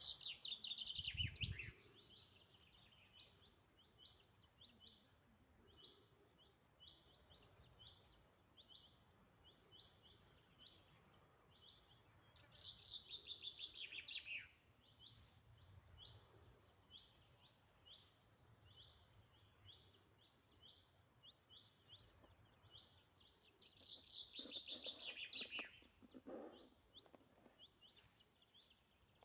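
Quiet birdsong: a small songbird repeats a short high chirp about twice a second, broken three times by a louder, quick trilled phrase that falls in pitch, roughly every twelve seconds.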